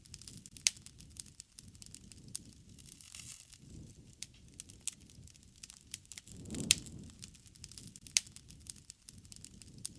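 Campfire burning: wood crackling and popping in sharp snaps, with a soft low rush of flames underneath that swells briefly; the loudest pops come under a second in and again near the seven-second mark.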